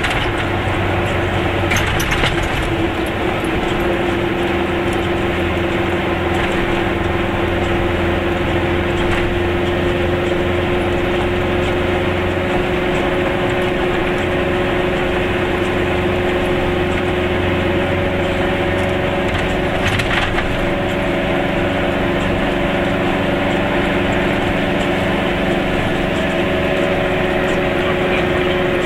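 Goggomobil's small air-cooled two-stroke twin engine running at a steady cruise, heard from inside the cabin along with road noise; its pitch rises a little about a third of the way in. A couple of sharp clicks, one near the start and one about two-thirds through.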